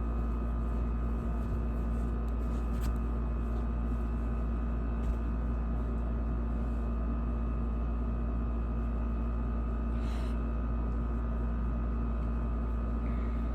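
Steady low room hum with a constant thin whine over it, the drone of a running fan or appliance, with a few faint soft clicks.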